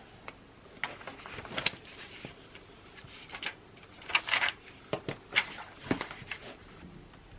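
Writing on paper: scratchy strokes in short bursts, with sharp clicks and taps in between.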